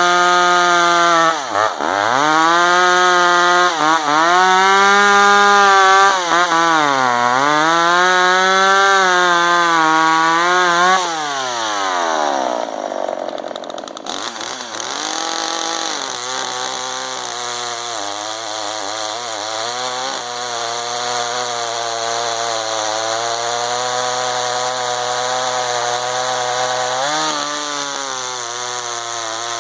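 Two-stroke gas chainsaw cutting at full throttle, its engine note dipping and recovering several times as the chain bites into the wood. About eleven seconds in, the throttle comes off and the pitch falls away, then the saw runs on at a lower, wavering speed with a short rev-up near the end.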